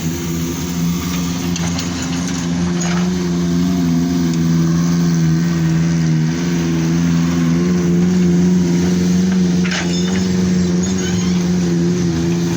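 A large engine running steadily with a slightly wavering pitch, with a couple of faint knocks about 3 and 10 seconds in.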